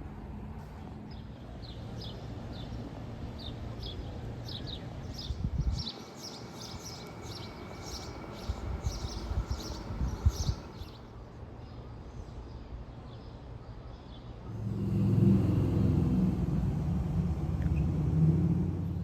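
A bird chirping over and over in a steady series over a low rumble. About fifteen seconds in, a louder, deeper engine rumble sets in and holds to the end.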